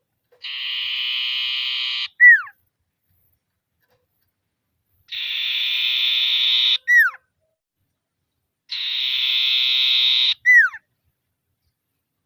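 Common iora (sirtu/cipoh) calling to challenge a rival: a long, dry, buzzing trill ends each time in a sharp downslurred whistle. The phrase comes three times, about four seconds apart.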